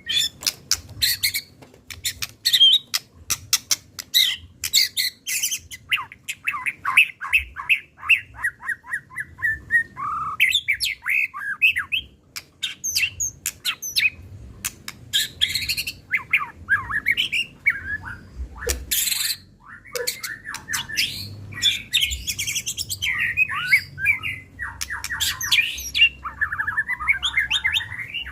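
White-rumped shama (murai batu) singing an agitated, fast, varied song of whistled phrases, trills and harsh rasping notes. The song is laced with sharp clicks and shows off its repertoire of imitated calls.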